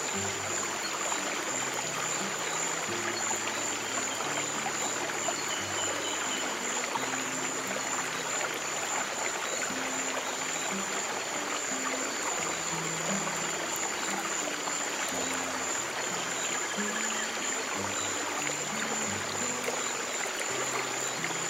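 Steady flowing stream water mixed with slow, soft low piano notes that change every second or two.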